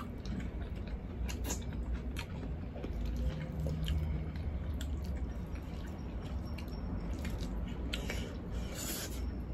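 Close-up chewing and mouth sounds of people eating braised pork hock and rice by hand, with short smacking clicks scattered throughout.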